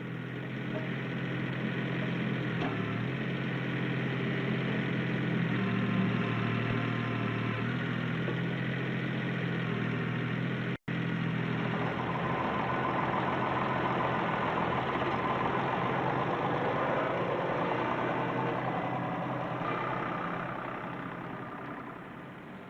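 Ford compact tractor's three-cylinder diesel engine running steadily while working its loader and backhoe hydraulics. The sound drops out for an instant about eleven seconds in.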